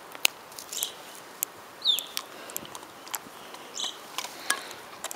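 Quiet outdoor background with a few short, high chirps from small birds, one of them falling in pitch, and scattered sharp clicks.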